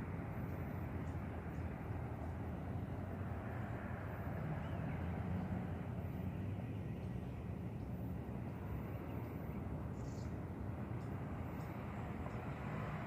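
City street traffic noise: a steady low rumble of cars driving by.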